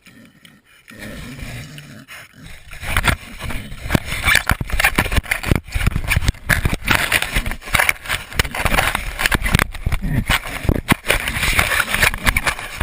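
A pig snuffling at and mouthing a small camera right against the microphone, with dense scraping and knocking of the camera. The handling noise thickens about three seconds in.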